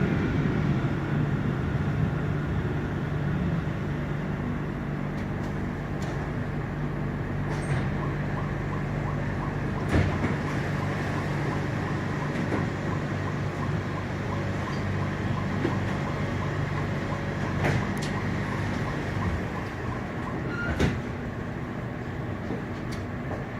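Frankfurt U-Bahn train running along the track: a steady motor hum with a few sharp knocks from the wheels. The hum stops about three-quarters of the way through while the rolling noise carries on.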